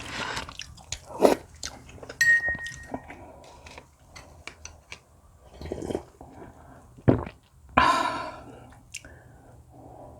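Close-miked eating: chewing and biting food, with short wet mouth clicks and a few louder bursts, the longest a little before the end.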